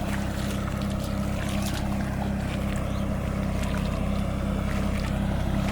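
John Deere tractor's diesel engine running steadily under load while puddling a flooded paddy field.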